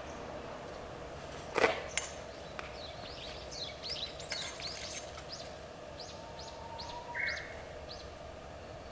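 A songbird singing a run of short, high notes that each slide downward, after a sharp click about one and a half seconds in, over steady background noise.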